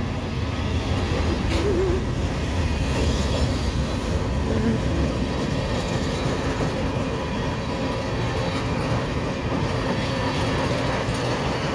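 Freight cars of a CSX manifest train rolling past at close range: a steady, loud rumble of steel wheels on the rails.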